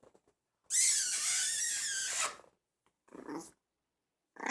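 A dog growling once for about a second and a half, then two short, quieter growls.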